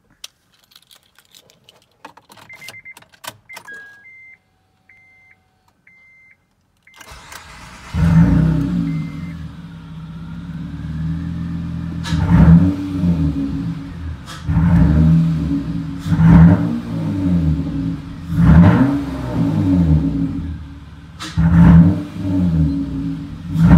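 Keys jangling and the car's warning chime beeping, then a 2008 Acura TL's V6 cranks and starts about seven seconds in. It is then blipped in a series of short revs about every two seconds, breathing through a DC Sports cold air intake and a cat-back exhaust with the resonator deleted.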